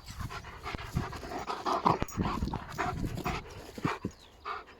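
East European Shepherd dog panting, quick breaths about three a second.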